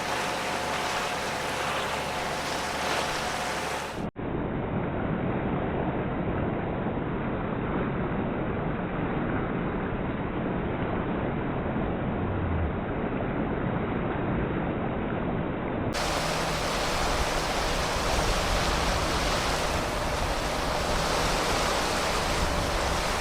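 Steady rushing of wind and sea water heard from a moving boat, with wind buffeting the microphone. The noise changes abruptly about four seconds in and again later, where different recordings are joined.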